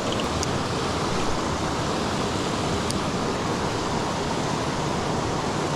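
Creek water rushing steadily over rocks, with a few faint high clicks near the start and again about three seconds in.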